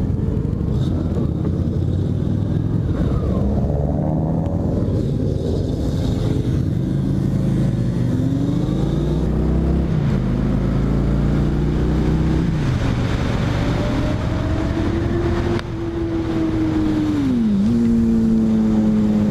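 Motorcycle engine pulling away and accelerating through the gears, its pitch climbing and dropping back at each shift, over steady wind rush.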